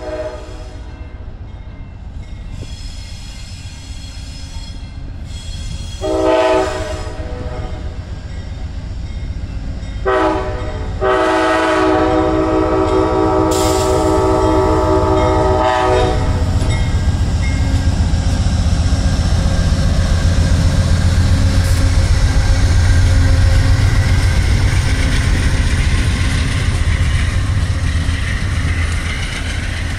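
Amtrak GE P42DC diesel locomotive sounding its horn for a grade crossing: a brief blast about six seconds in, a short one about ten seconds in, then a long blast held for about five seconds. It then passes close by, and its engine and the passenger cars rolling over the rails make a loud, steady rumble.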